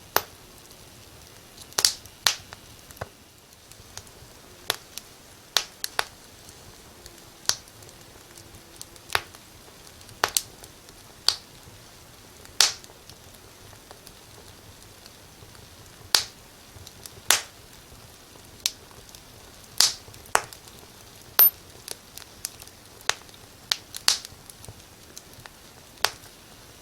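Fire in a fireplace crackling: sharp, irregular pops about once a second over a low, steady hiss.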